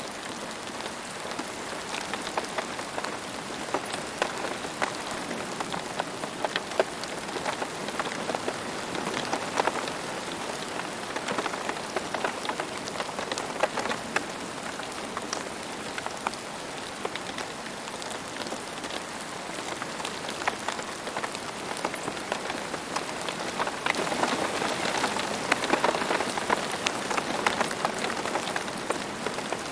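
Steady rain: a dense, even hiss with many separate drops ticking through it, growing a little heavier about twenty-four seconds in.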